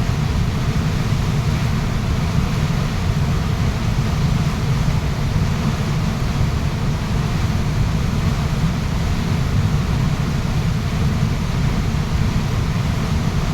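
Steady, even rush of a waterfall, the sound heaviest in the low range, with no breaks or changes.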